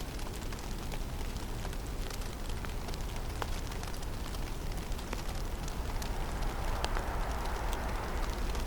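Snowstorm ambience in a forest: a steady low rumble of wind with scattered faint ticks of snow striking. About six seconds in, a broader rushing noise swells and keeps rising.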